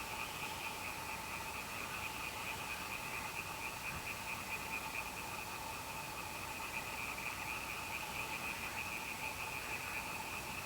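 Steady night chorus of calling frogs, a continuous, unbroken trilling din with no thunder heard.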